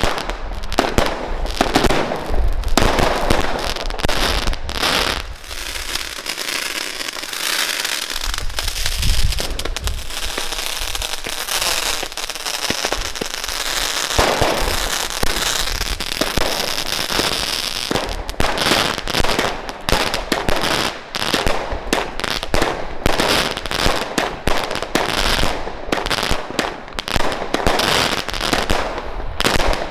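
Aquarius 25-shot consumer firework cakes firing in quick succession: a rapid, continuous barrage of launch thumps and bursts, with a stretch of dense crackling from the crackling stars partway through.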